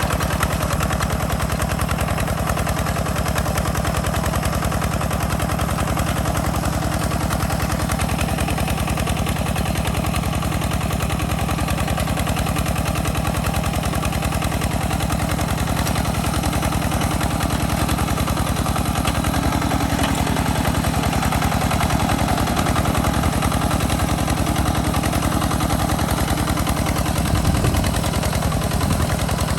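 Hand tractor's engine running steadily with a rapid, even chugging beat, a little louder near the end.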